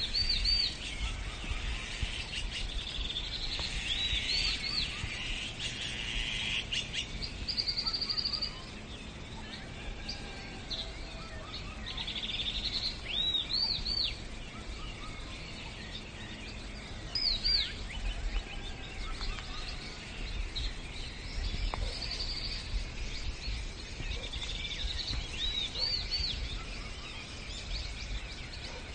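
Birdsong: small birds giving short, repeated high chirps and quick trills at irregular intervals, over a low background rumble.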